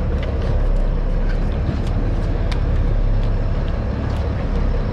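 Steady low rumble of a sportfishing boat's engine running, with a few light clicks and knocks over it.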